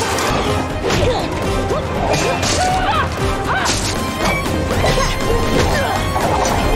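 Hand-to-hand fight: a rapid run of punches, kicks and crashing blows, several hits a second, over action music.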